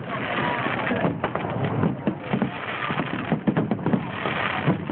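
Aerial fireworks bursting overhead: a run of sharp bangs and crackles, some close together.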